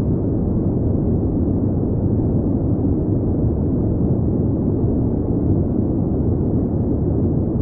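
Steady airplane cabin noise: an even, low rumble with little hiss above it, unchanging throughout.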